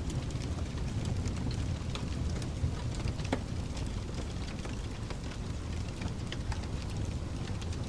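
Wood fire crackling in a fireplace, with irregular sharp pops and snaps, over a steady low hiss of pink noise.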